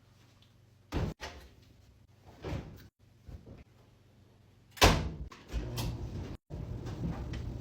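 Doors or cupboards being opened and shut during housework: a few light knocks, then one loud bang about five seconds in. A steady low hum follows.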